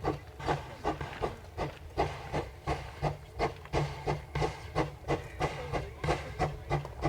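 Steam locomotive working, its exhaust chuffing in a quick, even rhythm of about four beats a second.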